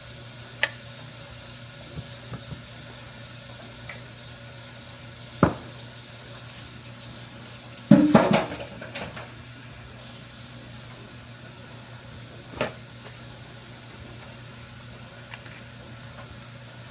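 Water running from a kitchen tap into the sink, with a few sharp knocks and clatters, the loudest a short cluster about eight seconds in.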